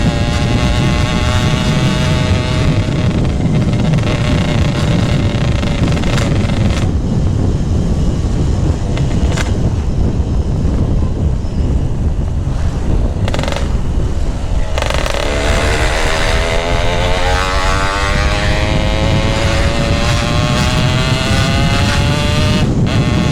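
Yamaha RX-King's single-cylinder two-stroke engine through a GRT18 K26 aftermarket exhaust, heard while riding. Its note falls slowly at first and then stays low for several seconds. From about halfway it rises steadily under acceleration, with a brief break near the end as the rider changes gear.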